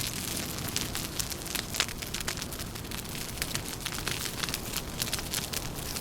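Wood fire crackling, with frequent sharp pops over a steady low rumble and hiss; one pop about two seconds in is the loudest.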